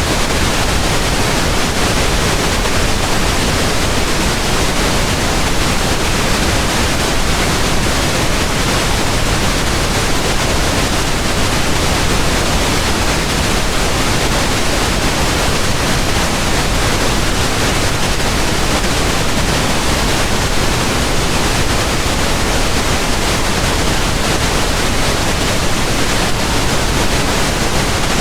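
Continuous pink noise: a steady, even hiss spread across all frequencies, with no change, rhythm or events.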